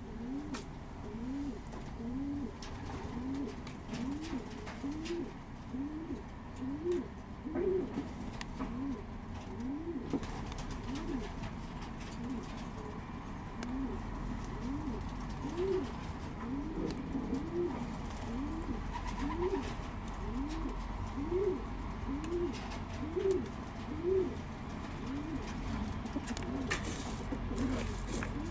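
Racing pigeons cooing: a long run of repeated low coos, each rising and falling, about one a second, with a short lull about ten seconds in.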